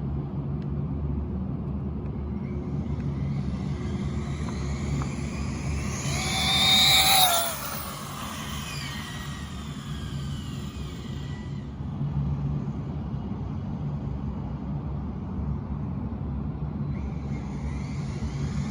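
Steady low rumble, with the high whine of an electric 1/8 race buggy's motor and drivetrain rising and then falling as it speeds past, loudest about six to seven seconds in.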